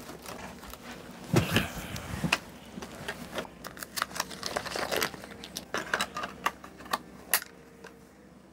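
Battery-powered camera being handled as its batteries are swapped: a run of small plastic clicks and rattles, with a few dull knocks early on.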